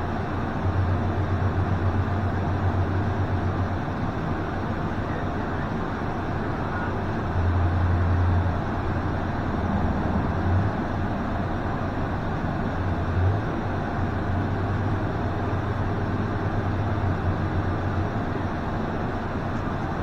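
A steady machine-like noise with a strong low hum that swells and fades several times, continuous throughout.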